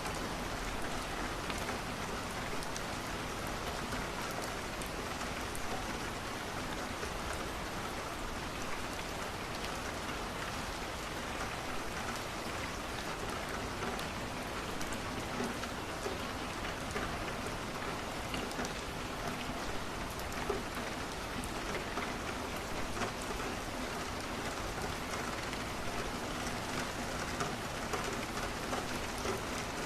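Steady rain falling on a window, with scattered light crackles from a wood fire.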